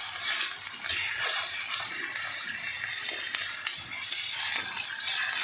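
Sliced carrots and onions sizzling as they fry in a pan, with a few louder surges of sizzle as pieces of hake are laid in among them.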